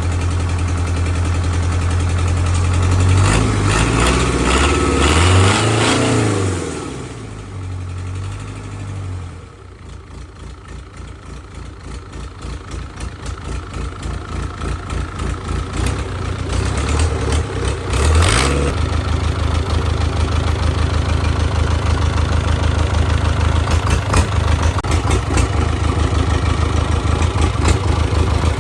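Restored Hyundai diesel engine running: it is revved up and down, then slows to a slow chug about nine seconds in. It gradually picks up speed again and settles into a steady run.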